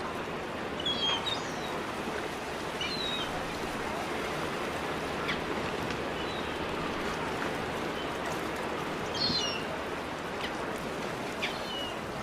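Birds chirping in short calls, a few times, over a steady wash of water and outdoor ambience.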